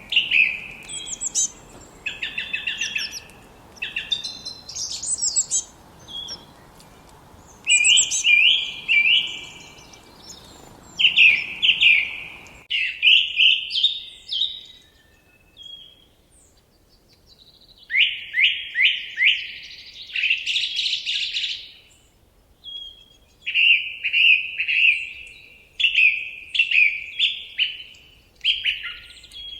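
Songbirds singing in short, repeated phrases of quick falling notes and trills, one phrase after another with brief pauses between them. A faint background hiss cuts off abruptly about halfway through.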